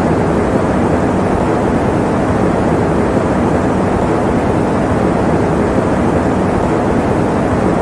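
Electric fan running at a steady speed: an even, unchanging rushing noise, mostly low and mid-pitched and without any clear tone.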